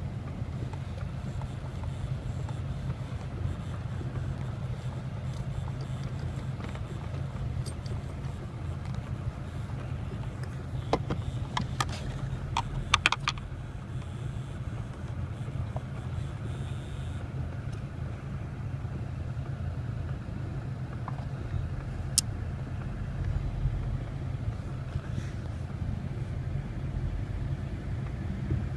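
Volkswagen Golf Mk5 engine idling as a steady low hum. A short cluster of sharp clicks comes a little before the middle, and a single click comes later.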